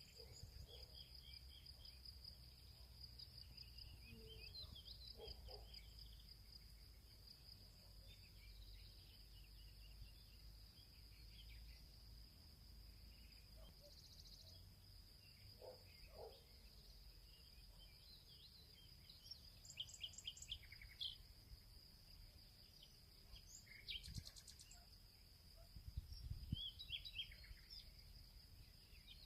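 Faint field ambience: a steady high-pitched insect trill, typical of crickets, with birds chirping and calling on and off, the calls busiest and loudest in the last ten seconds. A faint low rumble sits underneath.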